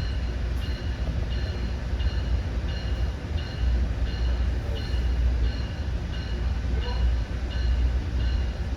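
Inside a commuter train car: a steady low rumble of the train, under an electronic two-tone beep repeating evenly about one and a half times a second. The beep is typical of the door warning during a station stop.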